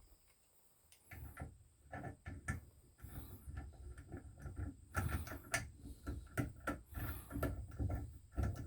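Irregular clicks, knocks and light rattles of hands working shower valve and handle parts. They start about a second in and come thick and fast through the rest.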